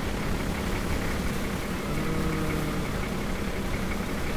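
Toyota Land Cruiser 60 Series engine running steadily, a constant low rumble.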